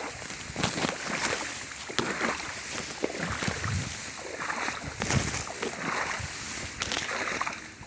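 Water splashing and sloshing in irregular strokes, some with a low thud, about one every half second to a second.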